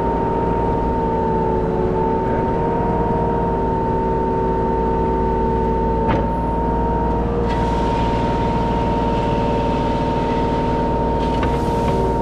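Kubota 33 mini excavator's diesel engine running steadily under a high, even whine.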